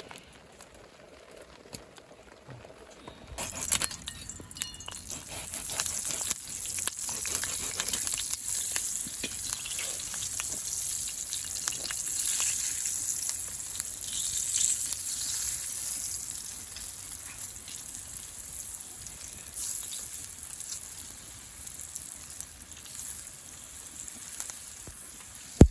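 Food sizzling as it fries, a dense hiss with crackling that starts suddenly a few seconds in and eases off somewhat toward the end.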